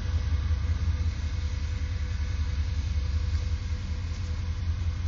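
Off-road SUV's engine running steadily on a muddy forest trail, heard as a low rumble.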